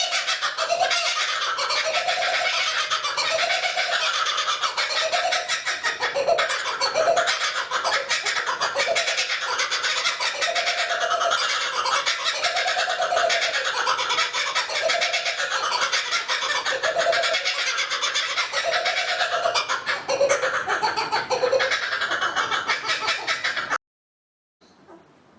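Laughing kookaburras in a dense, continuous chorus of repeated cackling calls. It stops abruptly near the end.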